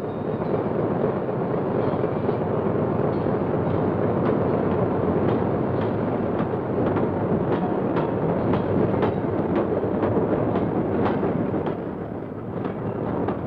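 Diesel-electric locomotive and freight train running along the line: a steady rumble, with the wheels clacking over rail joints from a few seconds in.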